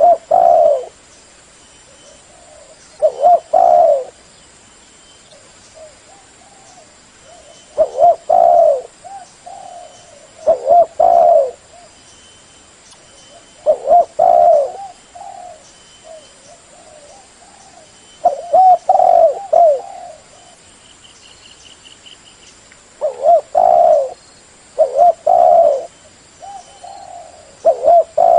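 Spotted dove (tekukur/derkuku) calling loudly, repeating its low, wavering coo phrase every few seconds, with faint higher chirps between the phrases.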